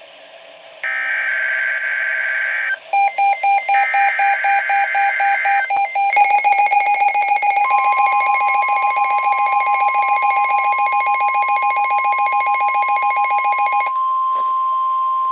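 NOAA Weather Radio emergency alert tones. Harsh buzzing digital header bursts come twice in the first six seconds. A fast beeping alarm starts about three seconds in and stops near the end, and a steady high warning tone joins it about halfway and holds on alone.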